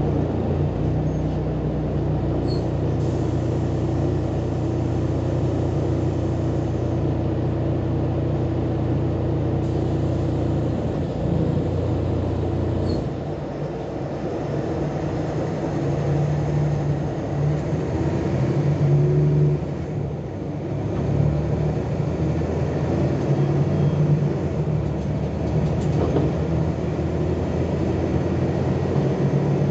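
Volkswagen Volksbus 18-280 OT LE city bus's diesel engine running, its note changing several times: it drops off about eleven to thirteen seconds in, then pulls harder and louder for a stretch in the middle before settling.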